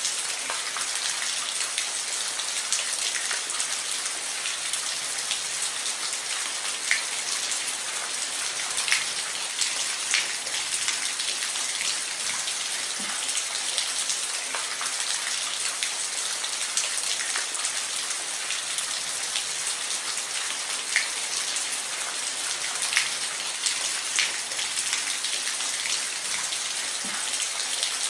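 Steady rain falling on a roof: a dense even hiss with scattered louder individual drops striking.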